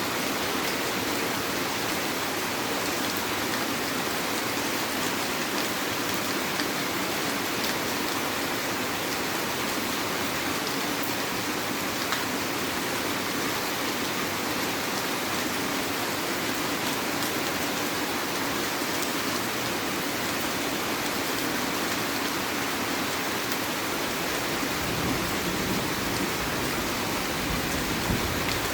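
Heavy rain falling steadily, a dense hiss with scattered drop ticks. A low rumble comes in near the end.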